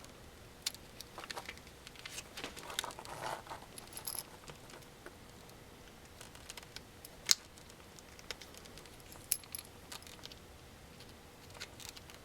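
Small screwdriver prying at a plastic cover on the headband of AKG K240 headphones: faint scattered clicks and scrapes of metal on plastic, with one sharper click about seven seconds in.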